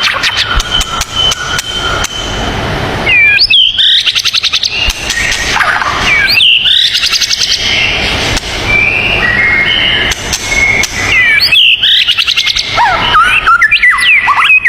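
Songbird singing in phrases: fast rattling trills and sharp whistled notes that sweep up and down, with a few short held whistles between them.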